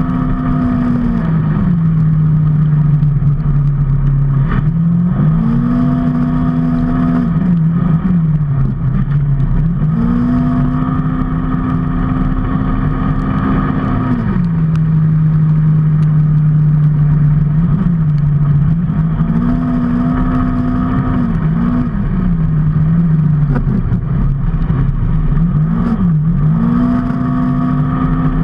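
Vehicle engine running while on the move. Its pitch rises and holds, then drops and holds, several times over, as with throttle and gear changes. Steady wind and road noise sit underneath.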